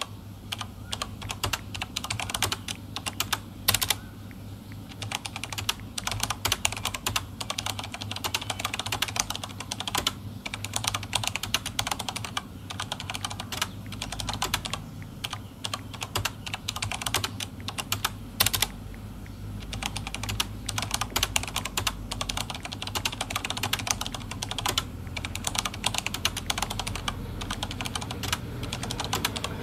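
Rapid clicks of typing on a phone's on-screen keyboard, in quick runs with short pauses, over a steady low hum.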